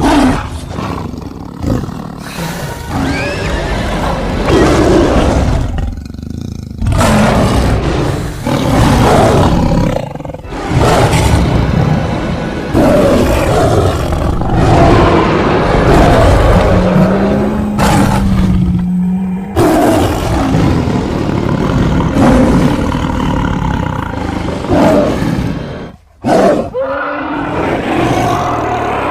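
A series of loud, layered roars of a creature sound effect, built from tiger, leopard and monster roar samples and mixed together. The roars come one after another with short breaks, including a brief near-silent gap near the end.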